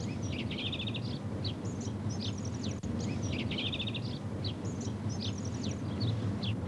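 Small birds chirping over and over, short falling chirps with a few quick rattling trills among them, over a steady low rumble of background noise.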